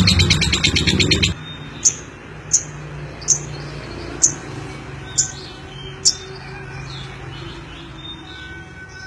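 Lovebird chattering in a loud, rapid, rattling trill (the 'ngeklek') that stops abruptly just over a second in. Six sharp, high single chirps follow, spaced a little under a second apart.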